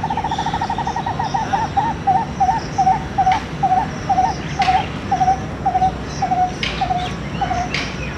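Indian palm squirrel calling: a rapid trilling chatter that slows, about a second in, into separate sharp chirps, spaced wider and falling slightly in pitch until they stop near the end.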